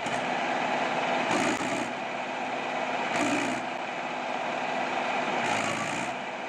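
Mahindra 575 DI tractor's diesel engine running steadily, with a short hiss three times, about every two seconds.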